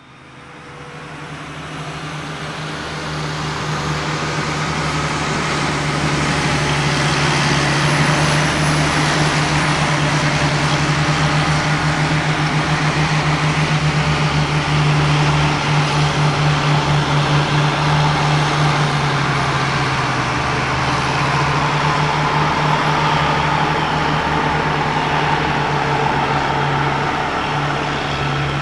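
Kyosho Blizzard RC snowcat's electric drive motors and gearing running steadily, fading in over the first few seconds.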